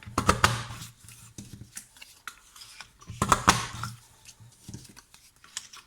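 Paper cardstock and small crafting tools handled on a desk: two short bursts of rustling and clicking, one right at the start and one about three seconds in, with a few single clicks between.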